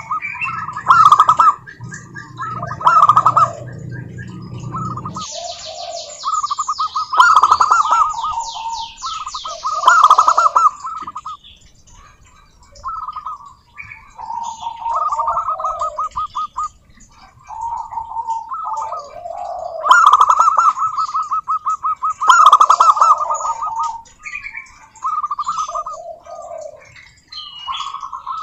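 Zebra doves singing: repeated rapid, staccato cooing phrases, one after another. A higher, fast chirping from a smaller bird runs over them from about five to eleven seconds in.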